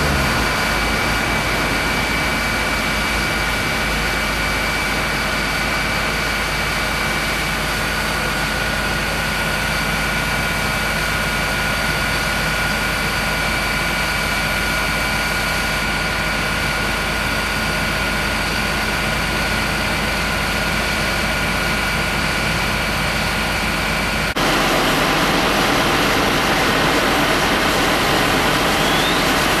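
A truck engine running steadily: an even, dense rumble and hiss with a constant high whine over it. The sound changes abruptly about 24 seconds in.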